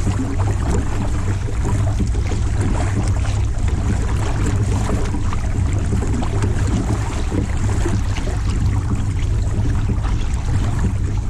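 Wind buffeting the microphone in a steady, heavy rumble, with water lapping and splashing around a pedal-driven fishing kayak on the river.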